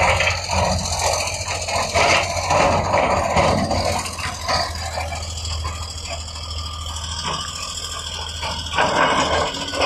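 Heavy earthmoving machine's diesel engine running steadily, with rattling and scraping of rock and metal over it. The scraping is louder in the first few seconds and again near the end, and the engine hum drops away just before the end.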